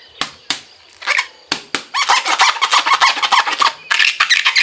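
Plastic ice-pack bag being handled and crinkled: a few sharp clicks, then a long stretch of dense, fast crackling.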